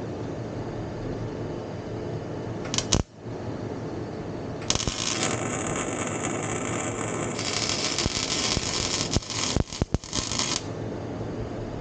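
Welding arc hissing and crackling in one burst of about six seconds that starts and stops abruptly, with a few short breaks near the end, as an exhaust pipe is welded. A sharp click comes a couple of seconds before it.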